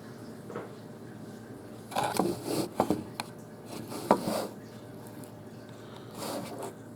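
Handling noises from a small plush toy and its paper hang tag: a few short rustles and light clicks about two, three, four and six seconds in, with faint room background between them.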